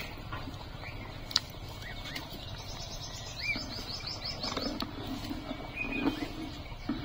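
Small birds chirping, with a quick run of high ticking notes about halfway through, over a steady low background noise. A few sharp clicks, the loudest about a second and a half in.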